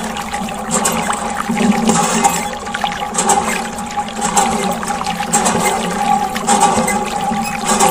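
Water sloshing and churning in a small homemade toy washing machine, over the steady hum of a small electric motor, with irregular splashy rushes.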